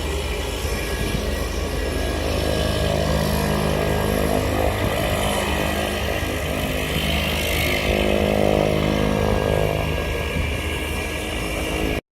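Airplane engine running with a steady low hum under a hiss that swells about seven to eight seconds in. The sound cuts off abruptly just before the end.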